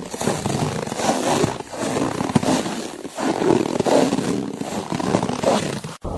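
Slow footsteps crunching through snow, a grainy crunch roughly every second and a half. It cuts off abruptly near the end.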